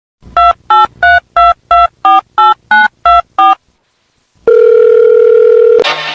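Touch-tone telephone keypad beeps: ten quick dialing tones, about three a second, then after a short pause a single steady tone lasting just over a second.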